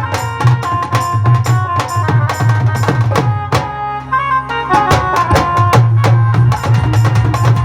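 Live band playing an instrumental: rapid, rhythmic drum and percussion strokes over a steady bass line and a sustained melody. The percussion drops out for about a second in the middle, leaving the held tones, then comes back in.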